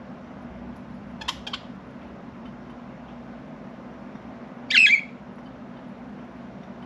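Pet budgerigars calling: two short, sharp chirps about a second in, then one louder, harsher squawk near the five-second mark, over a steady low hum.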